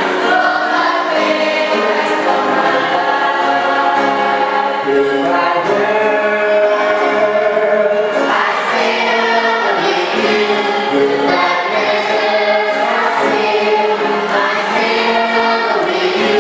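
Choir singing a hymn, sustained voices moving from chord to chord.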